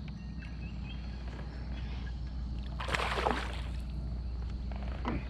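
Water sloshing around a kayak under a steady low wind rumble on the microphone, with one louder splash about three seconds in.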